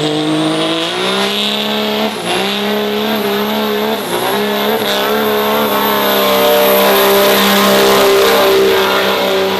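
Pulling truck's engine held at high revs under full throttle during a pull, its pitch dipping briefly twice, with a thin high-pitched whistle that climbs over the first second and then holds. Near the end the engine note drops off as the throttle is released.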